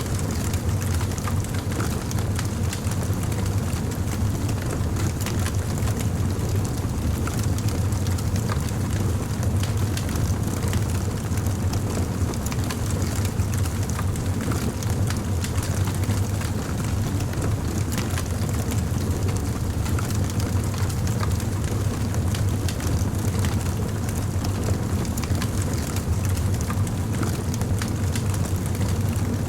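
Wood fire crackling, with frequent small pops and snaps over a steady low rumble.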